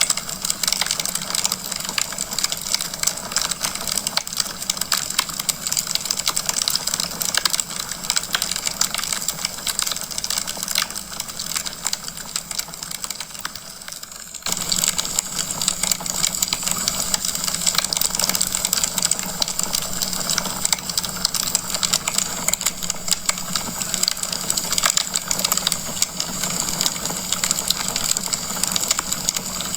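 Wood fire in a fireplace crackling steadily with dense, rapid small pops over a low rushing burn. About halfway through it dips slightly quieter, then comes back abruptly louder.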